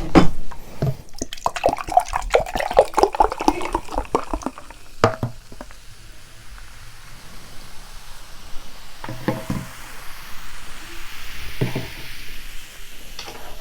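Utensils stirring and mixing thick, sauced carbonara buldak noodles, with wet squelches and small clicks. They come thick and fast for the first few seconds, then as a few scattered knocks.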